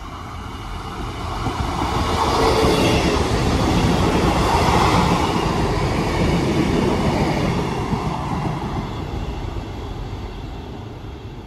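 Two coupled Class 158 diesel multiple units passing through a station. The sound builds over the first couple of seconds, is loudest in the middle, then fades away toward the end.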